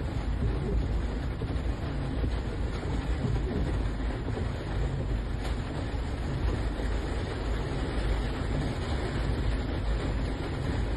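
Heavy rain pouring down in a steady, dense hiss with a deep low rumble underneath.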